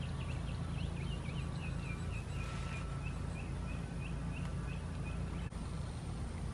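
A small bird singing a long run of quick repeated chirps, about four a second, that drift slightly lower in pitch, over a steady low background rumble.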